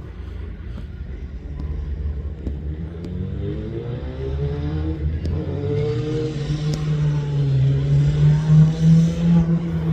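Rally car engine running under load as the car approaches, growing louder and rising in pitch, loudest near the end.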